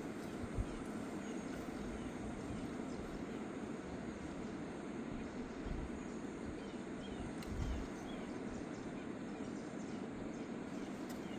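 Steady rushing of a fast mountain river, with a few short low bumps and some faint high chirps about seven seconds in.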